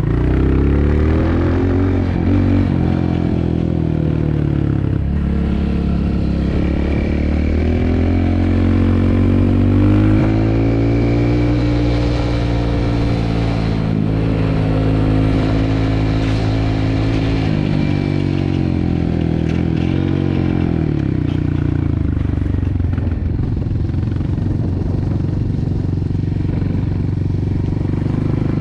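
Dirt bike engine running under way, its revs rising and falling again and again as the throttle opens and closes.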